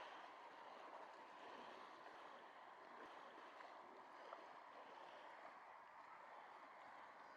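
Near silence: a faint, steady rushing outdoor ambience with no distinct events, apart from one light tick about four seconds in.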